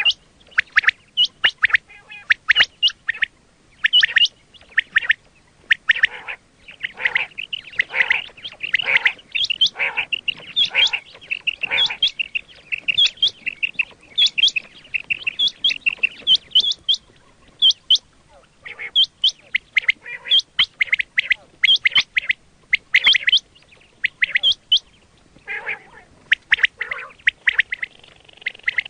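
Quail calling over and over in quick series of short, sharp whistled notes. The calls crowd into a dense chattering run through the middle, pause briefly, then pick up again.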